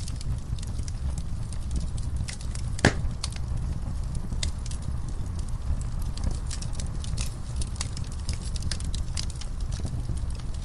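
Fireplace fire crackling, scattered sharp pops over a steady low rumble of the flames, with one louder pop about three seconds in.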